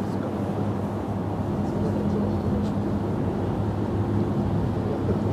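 Gusty wind on the microphone over a steady low engine-like hum.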